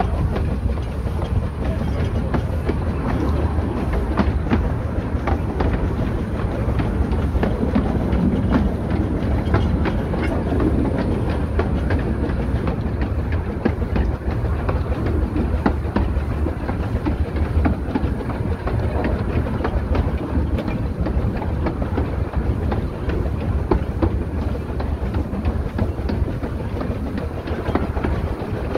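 Narrow-gauge train running along the line behind the small steam locomotive Ogwen: a steady rumble and rattle from the wheels on the track, with many short clicks over the rail joints.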